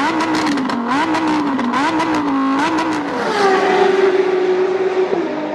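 Car engine being revved in quick throttle blips, its pitch jumping up and falling back about once a second with crackling from the exhaust; a little over three seconds in it is held at higher revs, then drops near the end.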